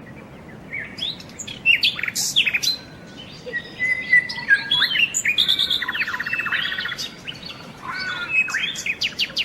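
Birds chirping and calling: many short whistled notes that sweep quickly up and down, with a rapid trill about six seconds in, over a faint steady hiss.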